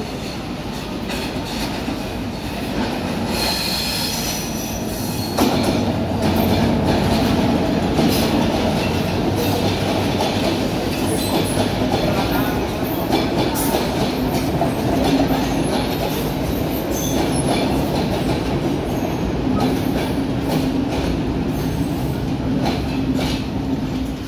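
A Sri Lanka Railways M6 locomotive and its old passenger carriages approaching and passing, rolling over the points with repeated wheel clatter over a steady rumble. A brief high squeal sounds about four seconds in, and the sound gets suddenly louder a little later as the train draws level.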